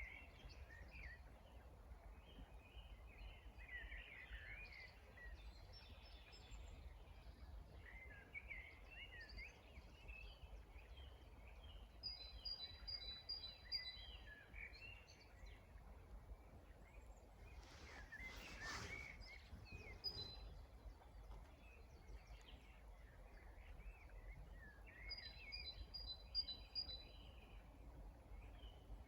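Faint chorus of songbirds singing, with quick warbling phrases throughout and, twice, a short run of evenly spaced high notes. About eighteen seconds in comes a brief whoosh of noise, like a gust or a rustle, over a steady low rumble.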